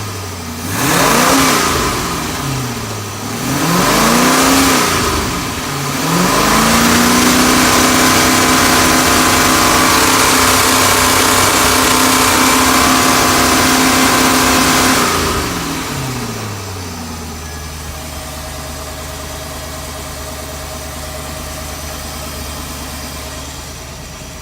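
5.7-litre OMC Cobra V8 sterndrive engine revved in two short blips, then held at high revs for about nine seconds before dropping back to a steady idle.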